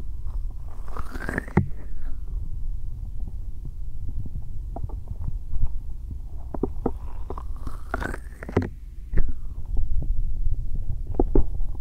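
Bare hands rubbing and pressing on a binaural microphone's ears, a close muffled rumble with small skin ticks. There are two longer rubbing strokes that rise in pitch, about a second in and again around seven seconds in.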